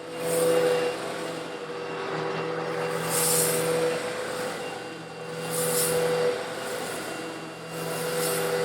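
Old Eureka vacuum cleaner running with a steady motor hum while sucking up coarse stone granules. A louder gritty rush comes about every two and a half seconds as granules are drawn in.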